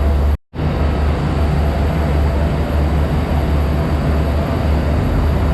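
Steady low rumble and hiss of a train at a railway station, with the sound cutting out completely for a moment about half a second in.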